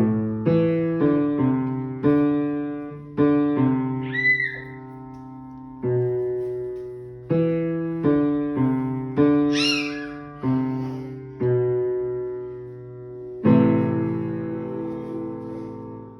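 Piano played one note at a time in a simple beginner's tune, ending on a chord about 13 seconds in that is held and rings out. Two brief high squeaks come through, about 4 and 10 seconds in.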